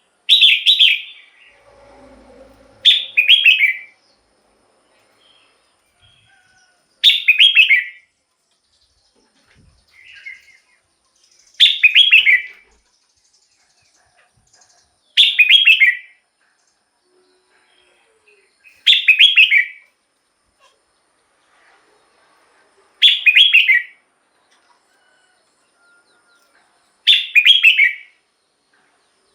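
Red-whiskered bulbul singing: a short, bright song phrase repeated eight times, about every four seconds, with a few soft notes between phrases.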